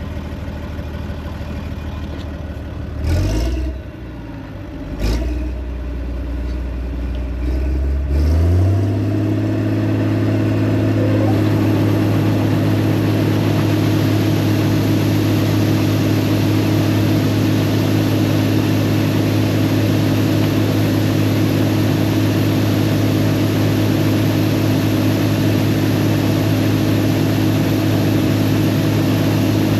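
Combine engine idling, with two short clunks about three and five seconds in, then throttled up about eight seconds in to a steady high-speed run for unloading grain.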